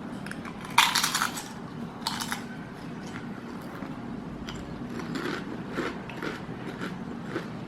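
Close handling noises: a loud crackly rustle about a second in, a shorter one about two seconds in, and scattered small clicks.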